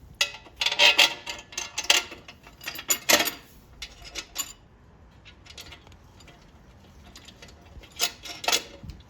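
Small loose metal hardware clinking and clattering: nuts, washers and bolts being handled while mounting a skid-plate guard. A quick run of sharp clinks over the first few seconds, a quieter stretch, then a few more clinks near the end.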